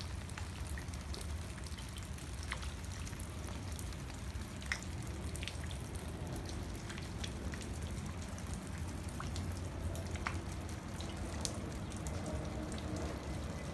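Rain falling steadily, with many separate drops dripping and tapping close by, over a low steady rumble.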